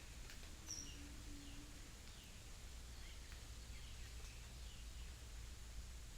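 Faint outdoor daytime ambience: scattered short, falling bird chirps over a faint steady high insect drone and a low rumble. A short, low hum lasts about a second near the start.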